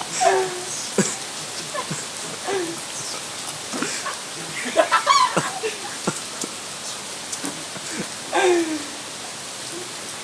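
Steady rain falling, with short wavering voice-like calls now and then, loudest about five seconds in.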